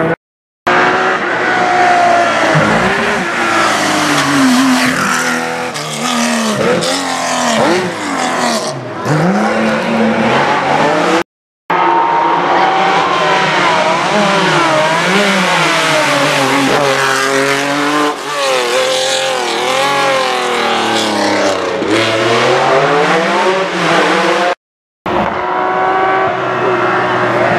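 Rally car engines at full throttle on a special stage, revving up and down repeatedly through gear changes and lifts as cars come past. The sound cuts out briefly three times, about half a second in, about eleven seconds in and near the end, where separate passes are spliced together.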